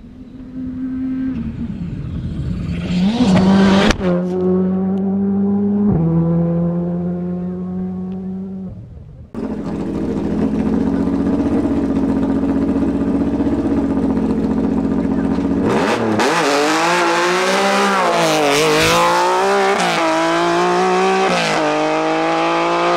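Rally car engines at full throttle, in several edited clips. First a car accelerates hard and shifts up twice. After a cut comes a steady engine note, then revs swinging up and down through a corner before climbing again near the end.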